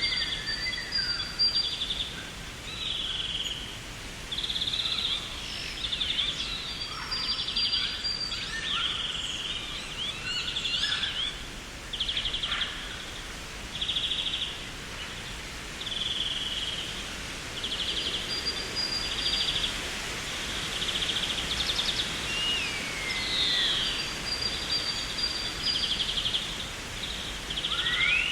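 Garden birds calling: short rattling trills repeating about once a second, mixed with chirps and a few sliding whistles, one falling glide among them, over a steady hiss.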